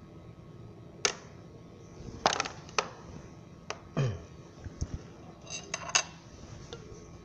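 Scattered clicks and knocks of hand tools and small hard parts being handled while a pressure washer is taken apart for repair, about a dozen irregular taps, one near the middle with a brief dull ring.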